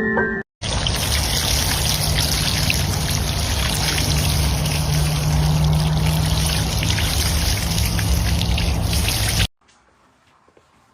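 Running water, loud and steady, with a low hum beneath it. It starts just after a brief silence and cuts off abruptly near the end, leaving faint room sound.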